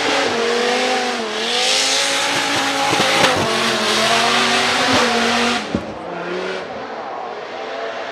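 Drift car engine revving hard with tyres squealing as the car slides, its pitch rising and falling with a few sharp pops; about three-quarters of the way through the tyre noise stops and the engine drops to a quieter run.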